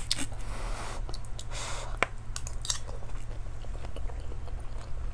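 Close-miked chewing of a mouthful of rice and fish, with a few light clicks of a spoon and fork on a plate.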